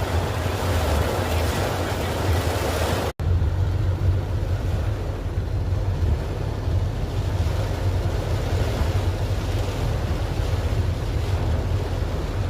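Heavy rain with wind buffeting the microphone, a steady rushing noise over a low rumble. About three seconds in the sound drops out for an instant, and after it the rain sounds duller.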